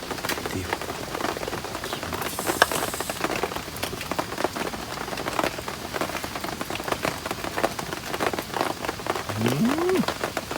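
Heavy rain falling steadily, with many separate drops striking close by. Near the end a short sound rises and then falls in pitch.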